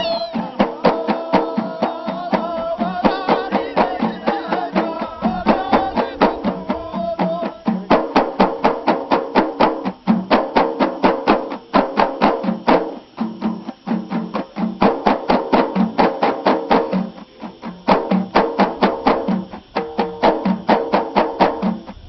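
Ahidous music: frame drums and hand-claps beat a fast, steady rhythm. Chanted singing wavers over the beat in the first few seconds.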